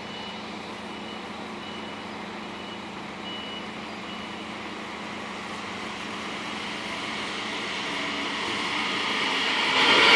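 Red DB regional electric multiple unit approaching the platform, its running noise growing steadily louder and rising sharply as it draws level near the end. In the first few seconds a row of short, faint, high beeps sounds at about two a second.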